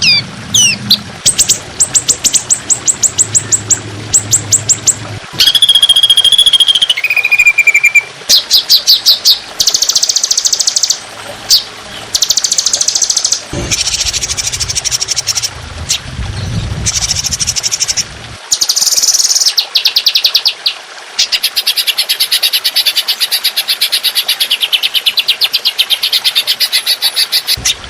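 Recorded songbird song for a masteran training track: volleys of rapid, repeated shot-like notes and fast trills, with two clear whistled notes, the second lower, around six to eight seconds in. A long, very fast trill fills the last six seconds.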